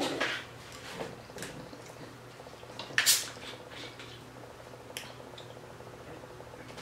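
Close-miked wet chewing and mouth sounds of a person eating, loudest at the very start. There is a short, sharp crackle about three seconds in and a few small clicks.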